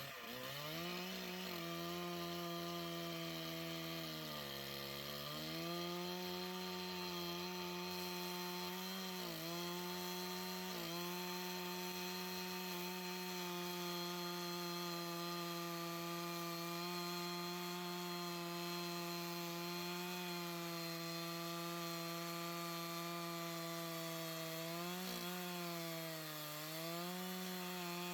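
Gas engine of a Harbor Freight bandsaw sawmill revving up from idle and running at full throttle while the band blade cuts through a cedar log. Its pitch dips briefly twice, about five seconds in and near the end.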